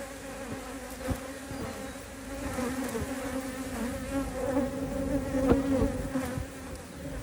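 Many honeybees buzzing over an opened hive, a steady hum that wavers in pitch; the colony has grown active and stirred up as its frames are handled. One brief knock sounds past the middle.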